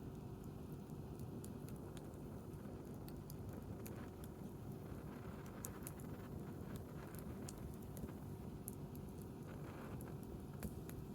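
Wood campfire crackling: scattered sharp pops and ticks at irregular intervals over a steady low background rush.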